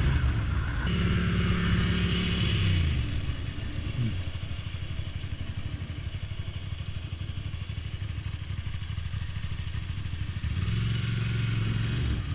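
1998 Ducati Monster 750's air-cooled L-twin engine, blipped up and held for about two seconds, then falling back to a low, pulsing idle. The revs rise and fall once more near the end.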